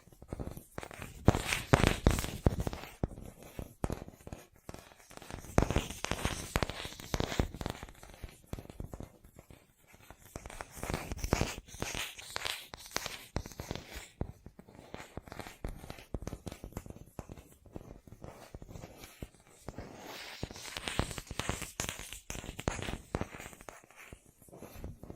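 Close-up ASMR tapping on objects: fast, irregular taps and light scratching, in louder runs that come and go every few seconds.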